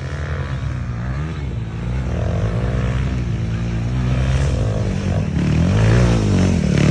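Kawasaki KLX250 dirt bike's single-cylinder four-stroke engine revving up and down under changing throttle, growing steadily louder.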